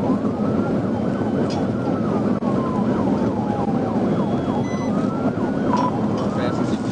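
Police car siren on a slow wail, rising and falling about every three seconds, with a quicker yelping sweep over it, above the steady road and engine noise of a car driving at speed.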